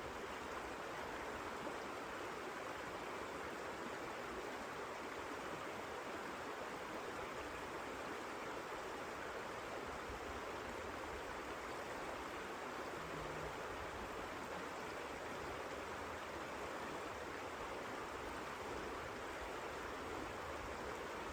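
Steady, even rushing of blizzard wind, without gusts or fire crackles.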